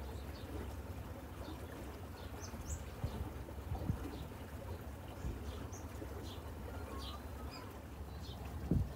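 Birds chirping in short, scattered calls over a steady low rumble, with a soft thump about four seconds in and another near the end.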